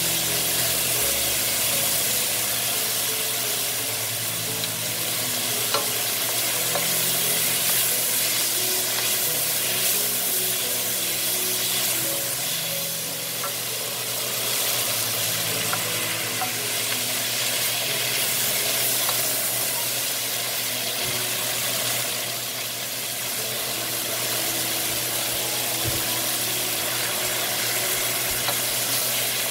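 Vegetables sizzling in hot oil in a wok as they are stir-fried and stirred with a wooden spoon; the sizzle is steady throughout.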